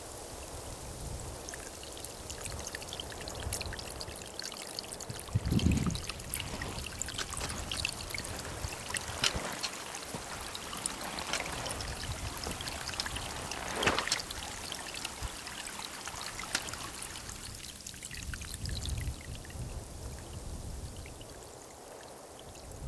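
Steady rain, with many small ticks of drops striking a nearby surface. A low thud comes about six seconds in.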